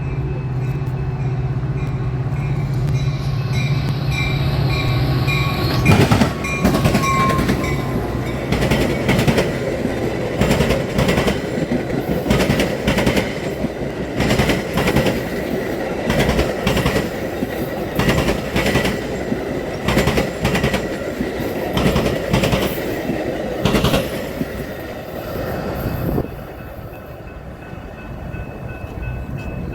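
A train passing over a railroad diamond crossing: after a steady low locomotive engine hum, the wheels clack sharply over the crossing, one clack about every second, for about twenty seconds. The sound drops off abruptly near the end.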